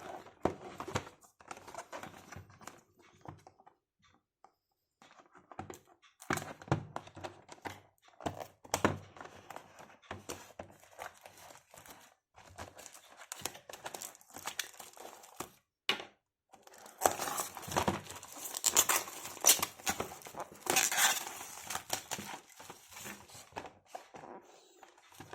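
Packaging being handled, crinkled and torn open during an unboxing, in irregular rustles and clicks with short pauses. The densest, loudest crinkling and tearing comes in the last third.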